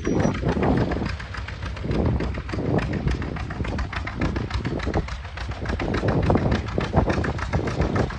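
Antique farm tractor engine running at a steady chugging beat of firing pulses.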